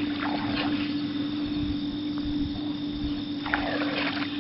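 Boat motor running at a steady pitch under way, with a low rumble and two short bursts of hiss, one just after the start and one near the end.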